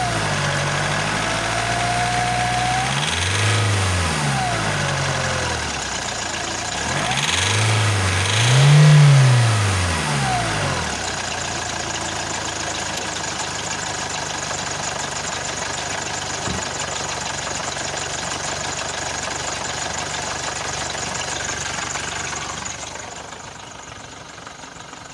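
Nissan X-Trail's YD22 2.2-litre four-cylinder turbo-diesel revved in several short blips, the highest and loudest about 9 seconds in, then settling to a steady idle from about 11 seconds. The owner finds the engine loud and hears a rattle when it is accelerated.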